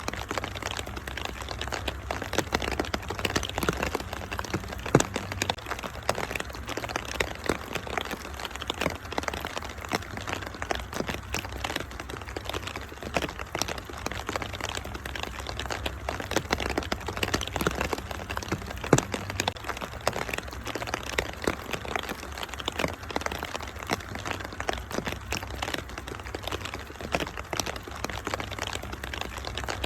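Wood fire in a fireplace crackling with a steady stream of small snaps, and a couple of louder pops about five seconds in and near twenty seconds. Under it run a steady rain-like hiss and a low rumble.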